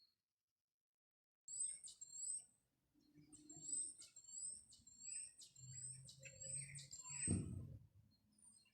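A songbird singing a run of short, high rising notes, about two a second, starting about a second and a half in. A low thump sounds near the end.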